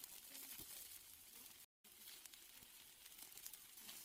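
Steaks sizzling on a grill: a faint, steady hiss with fine crackles and pops. The sound drops out completely for an instant a little before halfway.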